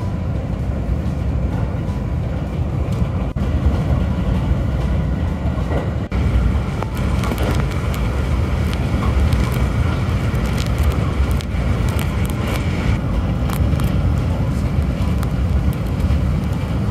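A JR West Shinkaisoku electric train running at speed: a steady, deep rumble of wheels and running gear, with scattered faint clicks over it.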